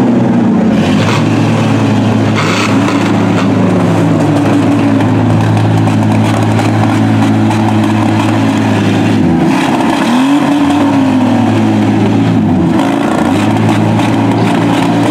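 Minivan engines revving hard under load, their pitch climbing and falling as the demolition derby vans push and ram one another. A few short knocks come through, about a second in, two and a half seconds in, and again near the middle.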